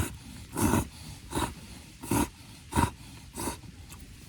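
A plastic bag being squeezed in even strokes to push air out, giving about six rustling puffs of air roughly one every 0.7 seconds.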